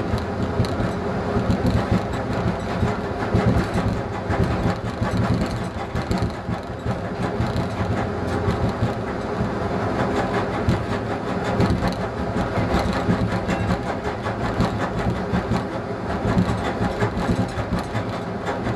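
ČD class 854 diesel railcar running along the line, heard from the cab: the diesel engine's steady sound under a continuous rattle and clatter of wheels on the rails.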